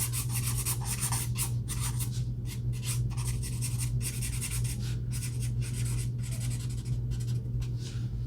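An Ohuhu alcohol marker tip flicking across paper in a run of short, quick strokes, several a second, laying in strands of hair. A steady low hum sits underneath.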